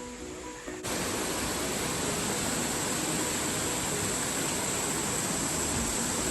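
Steady rushing of a waterfall, loud and even, coming in suddenly about a second in as ukulele background music cuts off.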